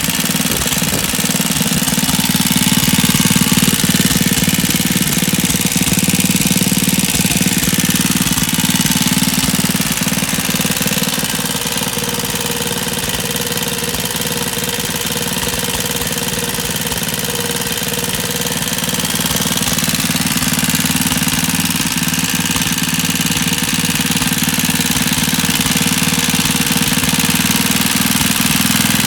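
98cc Suffolk single-cylinder two-stroke engine running steadily with a rapid, even firing beat, freshly running after a carburettor strip and clean, its slow running not yet adjusted. It gets a little louder a few seconds in and eases off again around the middle.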